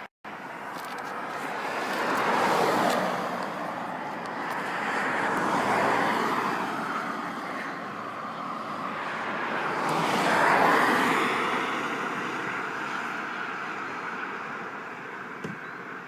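Road vehicles passing one after another: three swelling rushes of tyre and engine noise, the loudest about ten seconds in, each rising and then falling away.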